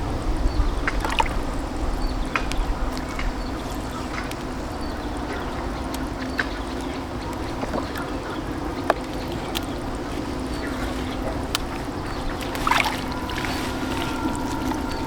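Small boat engine running steadily on the river, with scattered knocks and water splashing over it. About two-thirds of the way in, a high steady tone joins.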